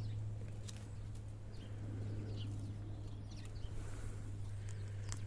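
Faint bird chirps over a steady low hum, with a couple of sharp clicks, one near the start and one near the end.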